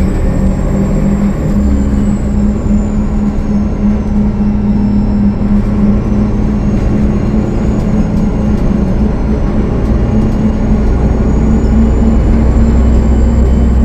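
Cummins ISL9 diesel engine of a 2013 Gillig Low Floor bus running steadily under way, a loud low drone with a thin high whistle that slowly dips and rises in pitch: the whine of a turbo with a boost leak.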